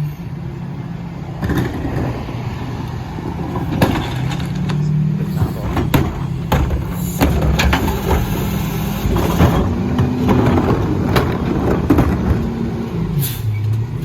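Mack LR rear-loader garbage truck working: the engine revs up and down while many sharp clanks and knocks sound as trash is loaded and crushed, with a short hiss midway.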